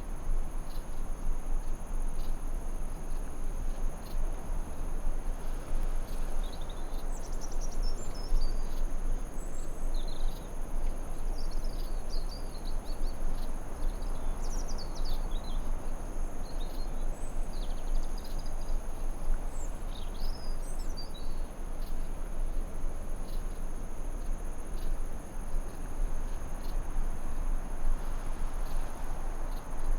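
Forest ambience: a steady high insect drone over a constant low noise bed, with a spell of birds chirping and trilling in the middle.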